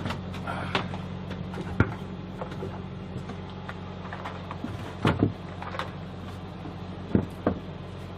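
A steady low mechanical hum with a few sharp knocks and clacks, a pair of them about five seconds in.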